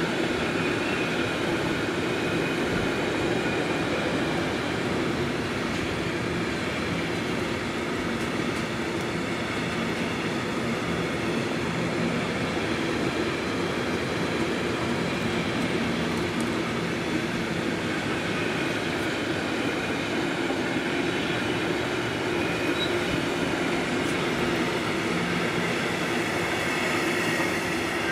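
Long freight train of pocket wagons carrying semi-trailers rolling past: a steady, unbroken rumble of wheels on rail, with faint high ringing tones above it.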